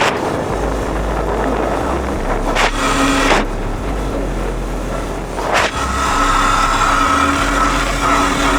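Dirt bike engine running while under way, with heavy wind rushing over the microphone. About six seconds in, a steady engine note comes up clearly.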